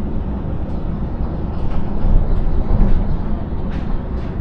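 Double-decker suburban train running, heard from inside the carriage: a steady low rumble that swells a little midway, with a few faint clicks.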